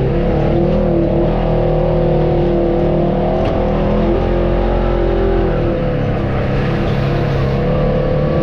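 Off-road vehicle engine running steadily at a fairly constant speed, with small rises and dips in pitch, heard from on board while crawling the trail.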